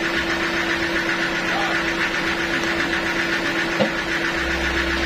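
Sawmill machinery running steadily with a constant hum and a fast, even pulsing, and a brief knock a little under four seconds in.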